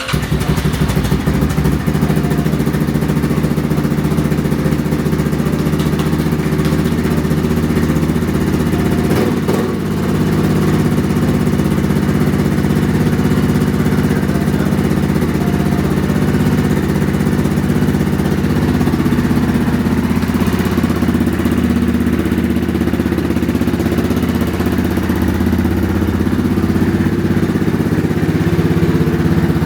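Yamaha Grizzly 660 ATV's single-cylinder four-stroke engine running steadily, with a brief dip in level about ten seconds in. It is running with its cracked intake boot, between carburetor and engine, taped over to stop the air leak that kept it from starting.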